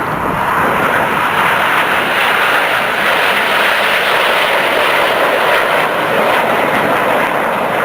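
Jet noise from BAE Hawk T1 jets' Adour turbofan engines flying a display: a loud, steady rushing noise without speech.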